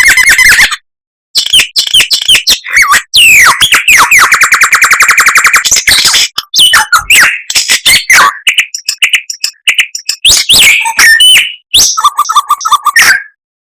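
A songbird singing loudly in a varied song of gliding whistles and chirps, with a fast, even trill of rapidly repeated notes about four seconds in that lasts about two seconds, broken by short pauses.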